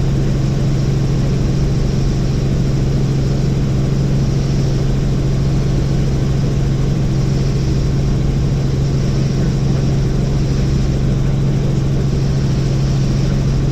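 Helicopter in flight, heard from inside the cabin: a steady drone of engine and rotor with a strong, constant low hum.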